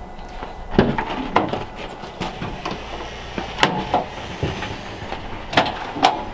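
Irregular knocks and clunks of things being handled, about half a dozen sharp ones over a few seconds.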